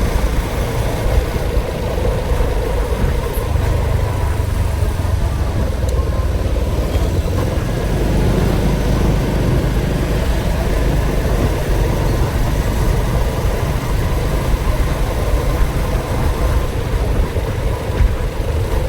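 A vehicle engine running steadily with a deep, even rumble that does not rise or fall in pitch.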